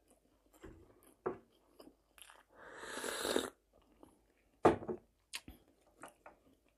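Close mouth sounds of a person chewing an omelette with bell pepper: wet smacks and clicks at irregular moments. A breathy rush lasts about a second near the middle, and the sharpest, loudest smack comes soon after it.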